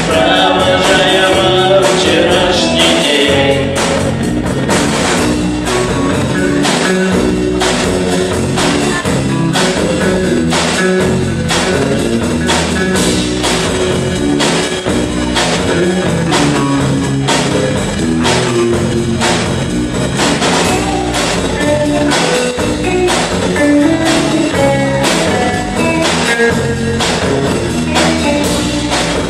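Small rock band playing live: electric guitars, bass guitar and a drum kit keeping a steady beat, with singing.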